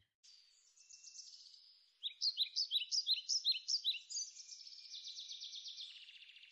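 A songbird singing. A faint twittering comes first; from about two seconds in there is a run of loud, repeated, downward-sweeping notes, about three a second, and after that a fast trill.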